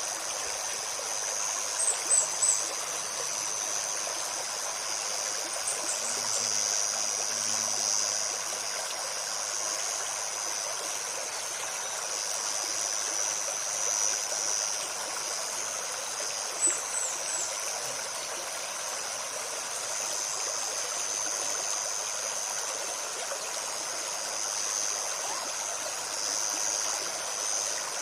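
Forest stream babbling steadily over its bed, with a steady high insect drone above it and a few short, high chirps about 2, 6 and 17 seconds in.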